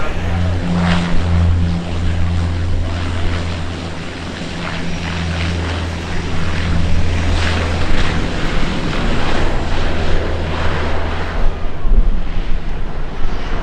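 Propeller aircraft engines running, a steady low drone with a rushing haze over it that weakens near the end.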